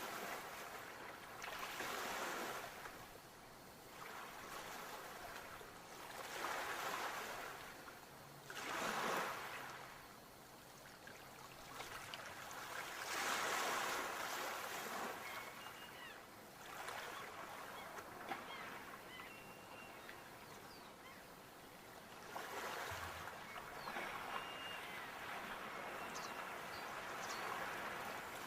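Sea waves breaking and washing on a shore, each wave a rushing swell every few seconds. A few faint, short high chirps in the second half.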